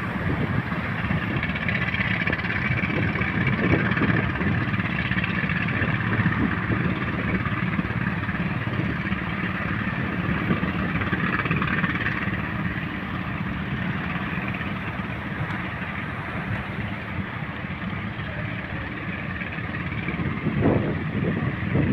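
Continuous rush of large sea waves breaking on the shore, swelling and easing slowly.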